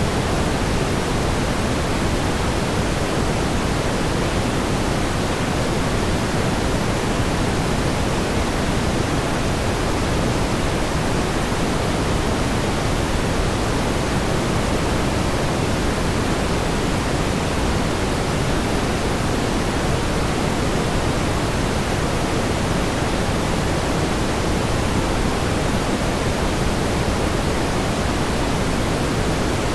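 Steady pink noise: an even, unbroken hiss heavier in the low end, with no swells or changes.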